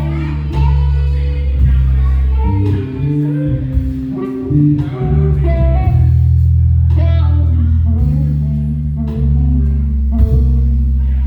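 Live band playing a blues-tinged number: electric guitar lead over sustained bass guitar notes, keys and drums.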